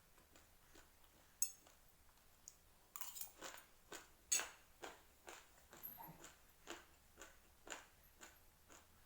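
Raw rice grains being chewed, crunching between the teeth in sharp, irregular crunches that come about twice a second from about three seconds in.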